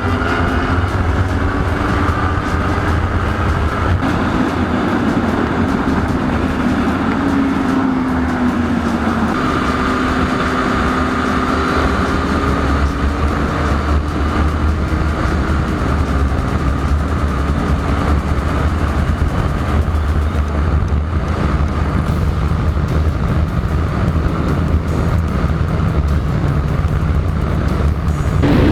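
Motorcycle engine running on the move, its pitch rising near the start and then drifting up and down with the throttle, under a steady rush of wind noise on the microphone.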